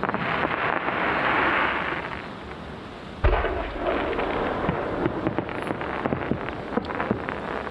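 Aerial fireworks display. A hissing rush for about the first two seconds, then a loud, deep boom of a shell bursting a little after three seconds in, followed by scattered sharp crackling pops over a low rumble.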